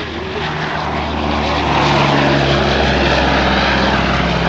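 Piston-engined propeller warbird flying past, its engine drone growing louder over the first two seconds and then holding steady.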